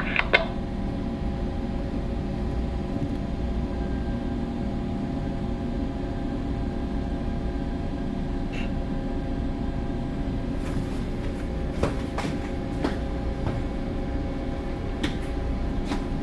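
Steady low hum of a bulk carrier's engine and machinery, with several steady tones over a low rumble. A few light clicks come in the last few seconds.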